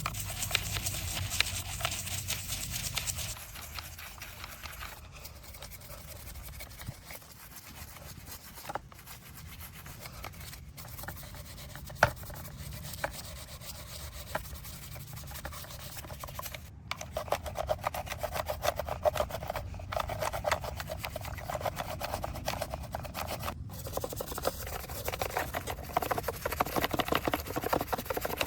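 Scrubbing on a small diecast model car in a fast run of short rubbing strokes, quieter in the middle stretch. It breaks off abruptly a few times.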